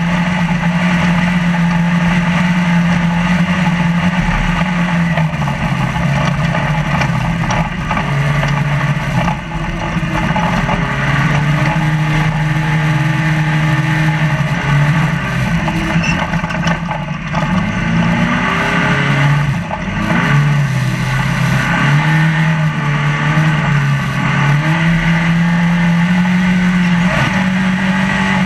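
Trophy Lite desert race truck's engine running hard, heard from inside the cab, its pitch falling and climbing again several times as the throttle comes off and goes back on, with a big dip and recovery in the middle. A steady noisy rush of rattle and wind runs underneath.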